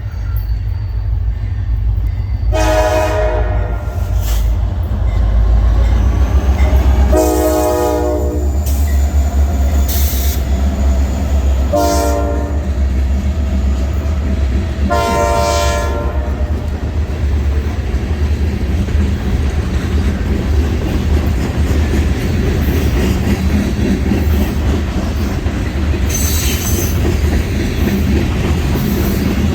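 EMD SD40-2 diesel locomotive's horn sounding the grade-crossing signal, long, long, short, long, over the locomotive's low rumble. After the last blast the steady rumble of the train rolling past carries on, with wheel noise from the cars.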